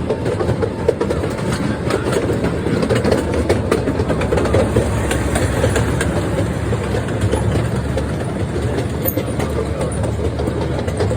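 Small theme-park train running along its track: a steady rumble with light wheel clicks on the rails.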